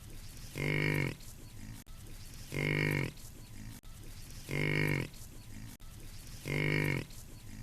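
A farm animal's call repeated four times, about every two seconds, each call short, pitched and identical to the last.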